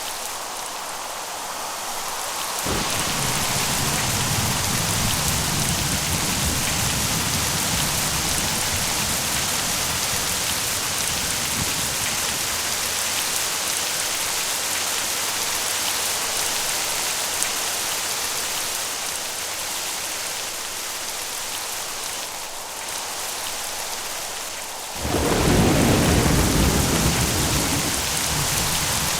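Steady rain with two rolls of thunder. A low rumble starts suddenly about three seconds in and dies away over several seconds. A louder clap and rumble comes near the end.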